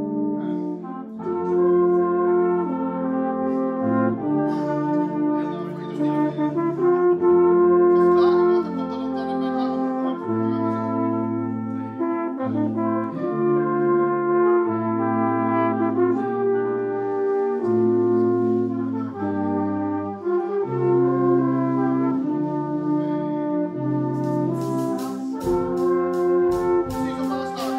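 Brass ensemble playing a slow passage of sustained chords, the bass notes changing every second or two. Near the end, evenly spaced percussion strokes come in.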